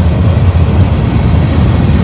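Cars of a manifest freight train rolling past at close range: a loud, steady low rumble of steel wheels on rail, with a few faint sharp ticks.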